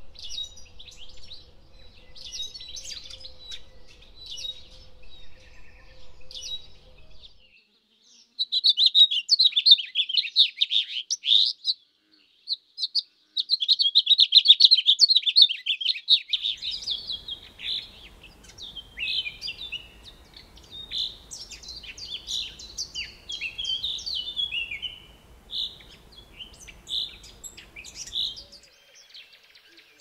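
Small birds chirping and twittering in high, quick notes. The sound changes abruptly several times, like separate recordings joined end to end. The loudest part is a dense run of fast chirps from about eight to sixteen seconds in, broken by a brief gap near twelve seconds.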